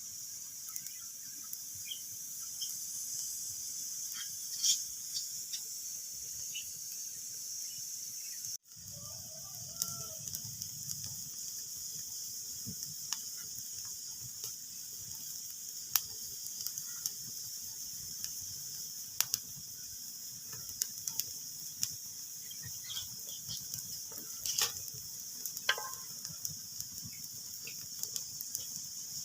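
Wood fire in a fireplace crackling: a steady hiss with scattered sharp pops and snaps. The sound drops out for an instant about a third of the way in.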